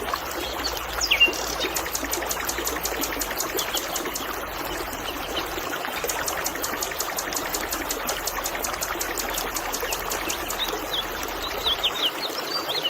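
River water trickling and babbling steadily, with birds chirping: short calls about a second in and several more near the end.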